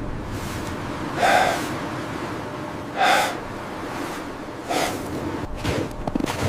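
Three sharp, loud breaths, gasps or snorts, spaced roughly a second and a half to two seconds apart, over a steady hiss.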